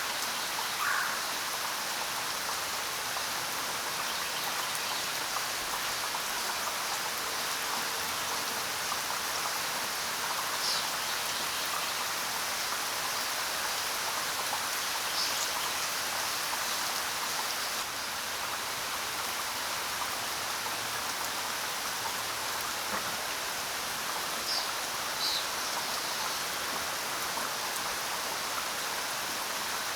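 Steady rain falling, an even hiss of drops, with a few brief, high bird chirps now and then.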